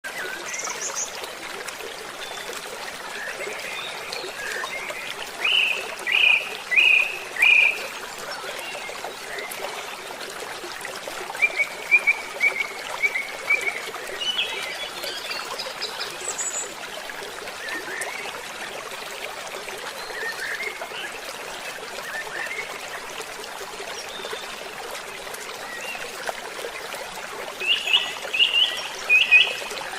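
Running water trickling steadily, with songbirds singing over it in short high notes and phrases. The loudest are a run of four notes about six seconds in, a rapid series around twelve seconds, and another run of four near the end.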